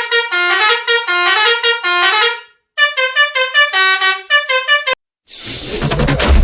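Telolet truck horn, a multi-tone musical horn, playing a fast stepping melody in two phrases with a short break between them. About five seconds in it stops, and a low rumbling rush of noise builds up.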